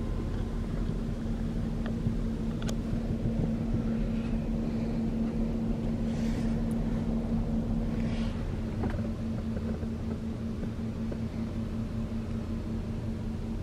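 A Jeep's engine idling, heard from inside the cabin as a steady low drone with a constant hum, and a few faint clicks.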